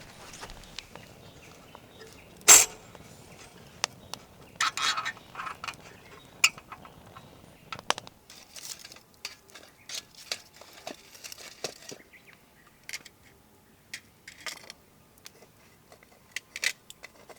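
Scattered clicks, knocks and clatters of objects being handled, with one sharp, loud knock about two and a half seconds in and a short rattling clatter a couple of seconds later.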